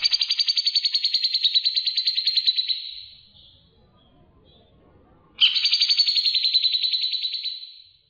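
A songbird giving two long, rapid trills of about fifteen notes a second. Each lasts about three seconds and trails off slightly lower, and the second starts about five seconds in.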